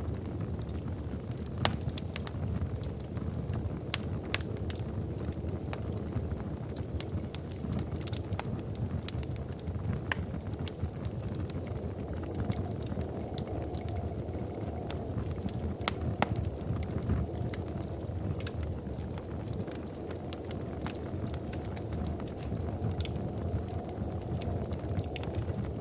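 Wood fire crackling in a fireplace: a steady low rumble of flames with scattered sharp pops and snaps throughout.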